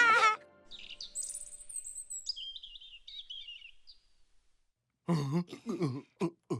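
Birds chirping and twittering, a run of high, quick calls lasting about three seconds just after a music cue cuts off. A voice starts near the end.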